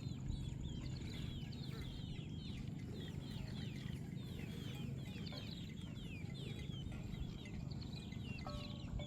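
Many birds chirping together, a constant stream of short, overlapping falling calls, over a steady low rumble.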